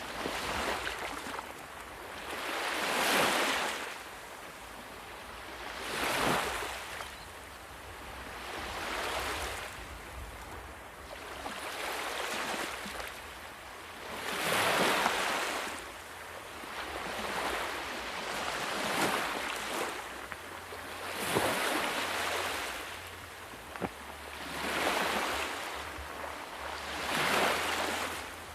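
Sea waves breaking and washing up in repeated surges, one swelling and fading about every two to three seconds.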